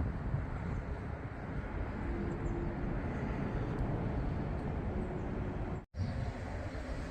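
Steady outdoor background rumble, with the sound cutting out completely for an instant about six seconds in.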